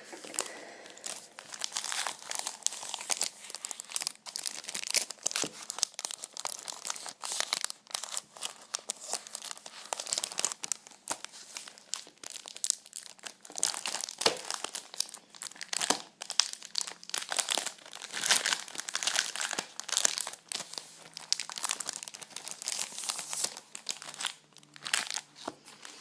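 Crinkly plastic wrapping being crumpled and torn open by hand, a dense, irregular run of crackles that eases off near the end.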